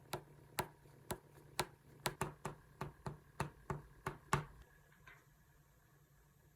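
A run of about a dozen light, sharp taps, roughly two to three a second, stopping about four and a half seconds in.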